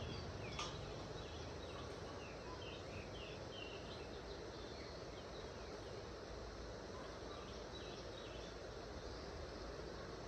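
Steady outdoor background hiss with a small bird chirping in quick short phrases, plus a single sharp click about half a second in.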